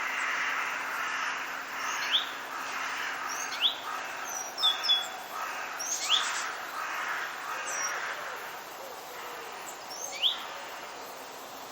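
Forest birds calling: short, sharp rising whistles repeated every second or two, over a steady background hiss.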